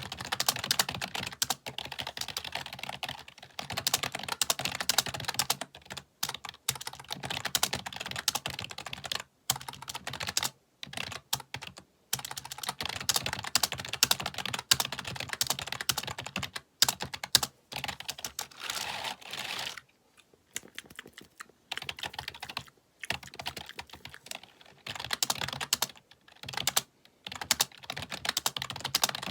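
Rapid typing on a computer keyboard: fast runs of key clicks and clacks, broken now and then by short pauses.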